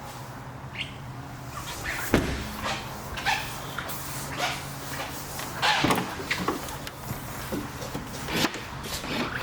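A series of irregular clunks and clicks, like the doors and fittings of a car being opened, shut and handled, over a steady low hum.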